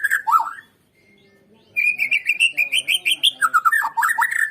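White-rumped shama (Borneo murai batu) singing a loud, fast song phrase: a rapid run of high notes, then lower whistled notes with downward slurs. The phrase breaks off just under a second in, and after about a second's pause the same phrase starts again. It is a lure (pancingan) song meant to set other shamas singing.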